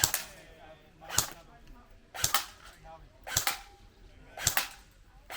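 BB gun firing five shots in a steady rhythm, about one a second, each a sharp crack.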